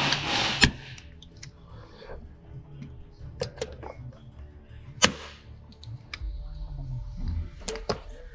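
Glue-pull dent repair tabs snapping off a car panel: two loud, sharp cracks, the first just after a short hiss and the second about five seconds in, with lighter clicks between and near the end, over background music.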